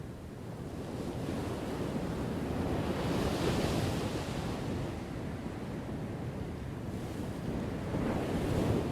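Ocean waves breaking: one wave builds and crashes about three and a half seconds in, then washes back, and another breaks near the end.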